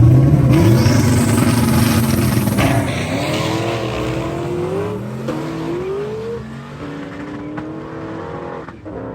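Drag race car launching and accelerating down the strip. The engine note climbs and drops back at each of several gear changes, then fades as the car pulls away.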